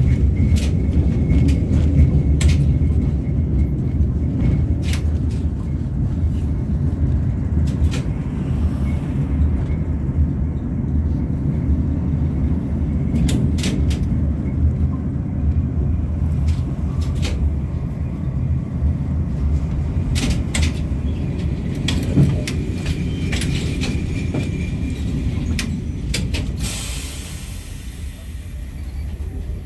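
Inside an LVS-86K articulated tram running on the rails: a steady low rumble from the wheels and running gear, with frequent clicks and rattles. Near the end there is a brief hiss and the rumble gets quieter as the tram slows for the next stop.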